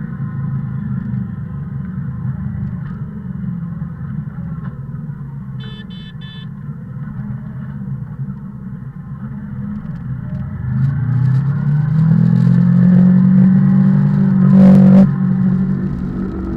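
A vehicle engine runs steadily on the road, then rises in pitch as it speeds up about ten seconds in. A short high beep sounds around six seconds in, and a loud brief burst comes near the end.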